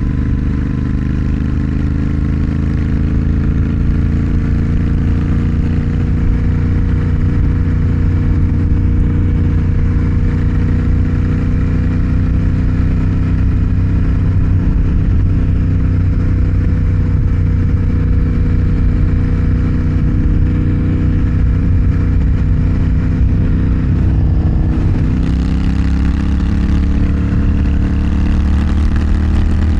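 Motorcycle engine running steadily under way, its note rising slightly over the first few seconds. About 25 seconds in, the engine note dips briefly and then climbs again, and the hiss grows louder.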